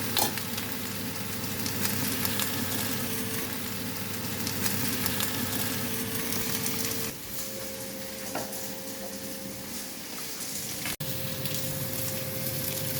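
Food sizzling steadily as it fries in a hot pan, with a faint steady hum underneath and a very brief break near the end.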